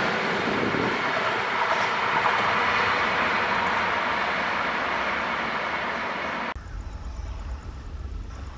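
Passenger train coaches rushing past at speed: a loud, steady rush of wheels on rail and air that slowly fades as the train draws away. About six and a half seconds in, it cuts abruptly to a much quieter low rumble.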